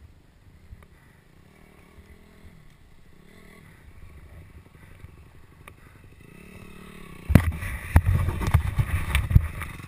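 Motocross bike being kick-started about seven seconds in: a run of loud knocks and low engine noise as it turns over without catching, a bike that won't start.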